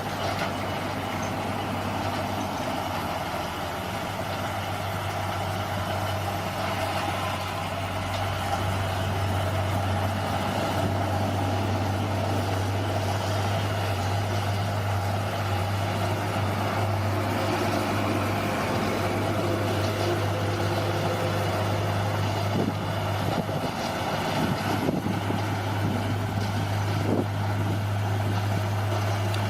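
Bulldozer's diesel engine running steadily with a deep, even hum, a little louder from about eight seconds in. A few short knocks come near the end.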